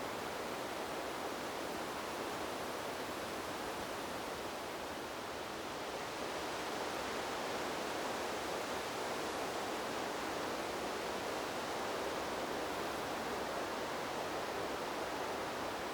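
Wind blowing through trees: a steady, even rushing noise with no distinct leaf rustles or gusts, swelling slightly about six seconds in.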